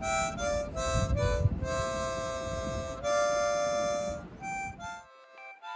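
Sampled harmonica playing a few short notes and then two long held chords over a low rumbling noise floor. About five seconds in the rumble cuts off abruptly, and short chopped harmonica notes carry on.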